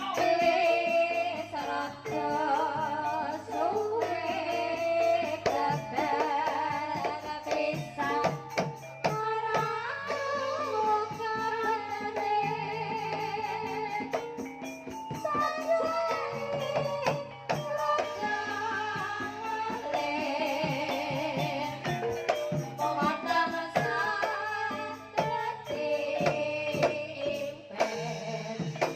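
Sinden (Javanese female singer) singing a melismatic, wavering vocal line over a folk ensemble with steady percussion.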